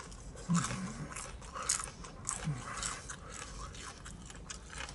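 Close-up chewing of crispy battered fried whiting: irregular crunches of the fried coating, roughly a few a second.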